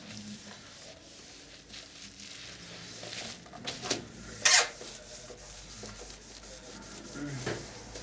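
Cleaning wipe rubbing over the case of a vintage Philips radio cassette recorder in uneven strokes, with a loud, short scrape about halfway through.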